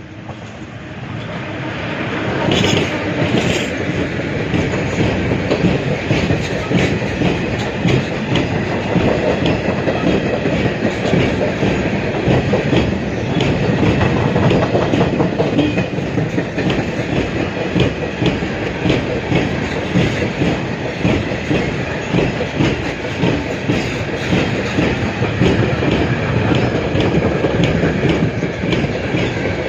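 Freight train of covered wagons hauled by a PKP ET22 electric locomotive rolling past at speed. The noise builds over the first couple of seconds, then holds as a steady loud rumble with fast clicking of wheels over rail joints.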